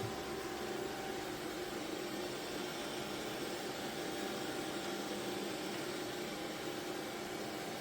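Xiaomi Robot Vacuum X20 Pro running, a steady whir of its suction fan and motors with a faint hum.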